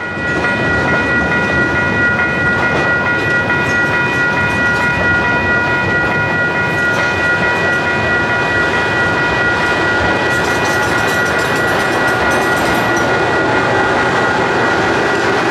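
Rail cars rolling past, with wheels rumbling and clattering on the rails, under the steady ringing of a level-crossing bell. The cars are a short cut of tank cars moved by a Titan trackmobile.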